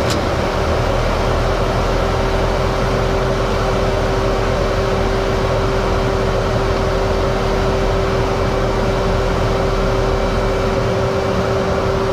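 Steady loud roar inside a fighter jet's cockpit, with a constant hum that comes in about a second in and holds.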